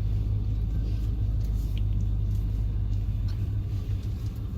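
A car's engine and running gear, heard from inside the cabin as a steady low rumble.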